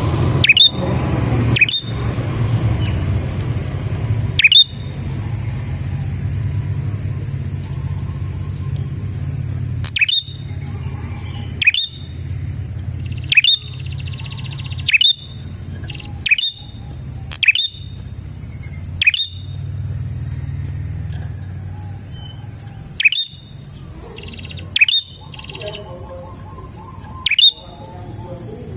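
Prinia (prenjak) calling: sharp, quick down-slurred chirps repeated about every one to two seconds, over a steady high ringing background and a low hum.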